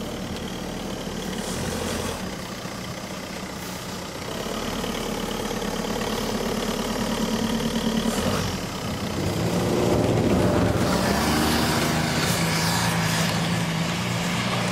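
Škoda Octavia's engine running and being revved under load as the car tries to climb out of a ditch, with its unloaded wheel spinning freely; the revs and loudness rise about nine or ten seconds in. The electronic differential lock (EDS) is not braking the spinning wheel, which the owner says does not work at all.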